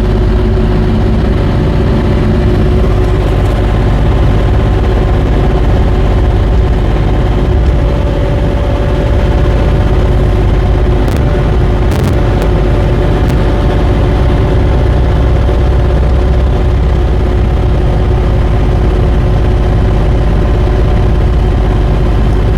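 JoyT5 JT5350 3.5-ton mini excavator's diesel engine running steadily. A few short clicks or knocks come about eleven to thirteen seconds in.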